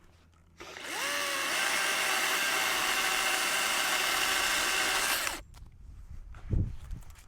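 Chainsaw run for about five seconds: it spins up quickly with a rising whine, runs steadily at full speed through a cut and stops abruptly. A low thump follows about a second later.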